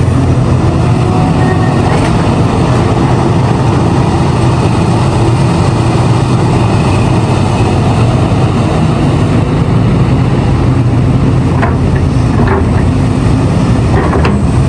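Large diesel engine of a hydraulic mining excavator running steadily at working revs, a deep, even drone, with a few faint brief clanks near the end.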